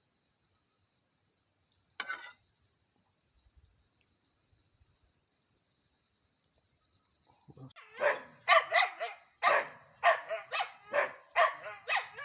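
Insects chirping in short, evenly pulsed high trills that repeat every second or so. From about two-thirds of the way in, a dog barks repeatedly, about two barks a second, louder than the insects.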